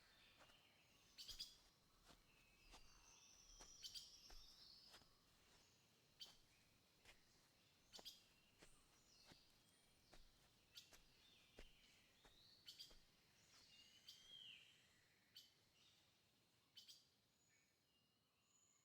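Faint birds chirping and twittering, with scattered sharp clicks about every second.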